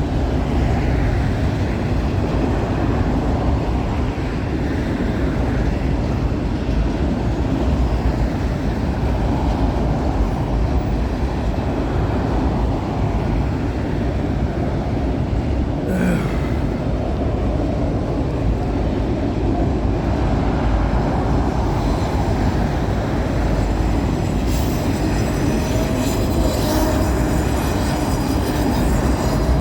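A long CN freight train's cars rolling past, with the steady rumble of wheels on rail. A single sharp click comes about halfway through, and a faint thin squeal of wheels comes in near the end.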